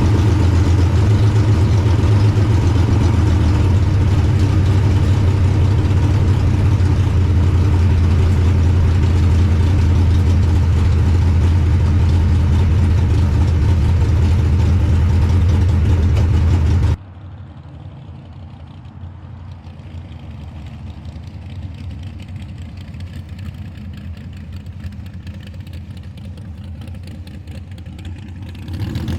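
Small-block V8 engine of a street car idling loudly and steadily. About 17 seconds in, the sound cuts abruptly to a much quieter, steady engine sound.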